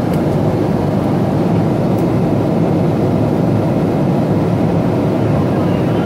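Steady, deep cabin noise of a Boeing 777-200ER in flight: engine and airflow noise heard from inside the passenger cabin, even and unchanging.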